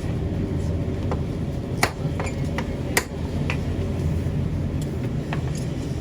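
Sharp metallic taps and clinks, a few light ones and two louder strikes about two and three seconds in, over a steady low hum.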